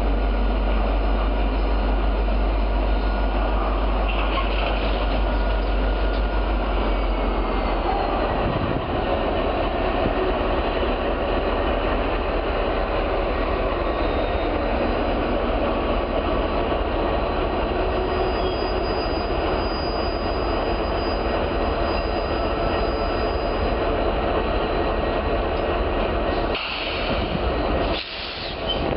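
Freight train of tank cars rolling past, steel wheels running steadily on the rails, with faint thin wheel squeals above the noise. The sound dips briefly twice near the end.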